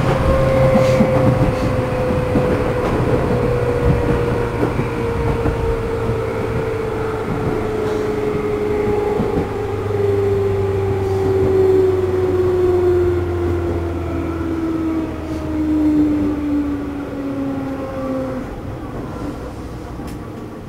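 Traction motors of a JR East 211-series motor car (MoHa 211-1, external-fan motors, known for an unusual motor noise) whining in a pitch that falls steadily as the train brakes into a station. The whine fades out near the end as the train slows toward a stop, leaving only the running noise.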